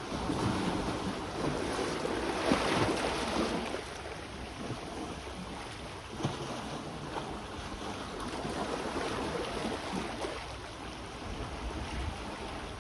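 Sea waves washing onto the shore, swelling louder about two to three seconds in, with wind buffeting the microphone.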